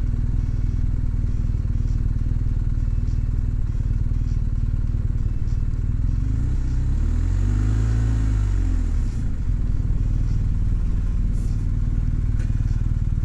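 Motorcycle engine running steadily at low revs, its pitch rising and then falling once about seven seconds in.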